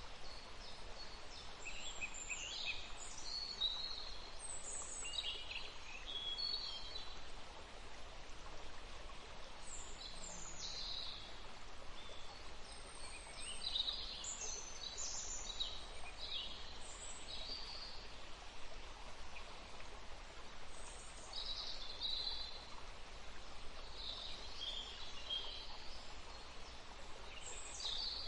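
Several songbirds chirping and singing in short phrases and trills throughout, over a steady background of soft forest noise and a low rumble.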